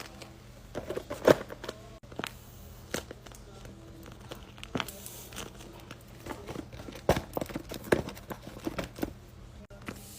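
Paper being handled: crinkling with irregular sharp taps and clicks as paper pieces are picked up and set down.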